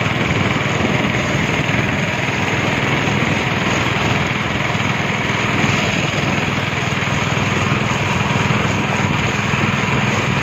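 Speedboat engine running steadily under a constant rush of noise, with no change in pitch or level.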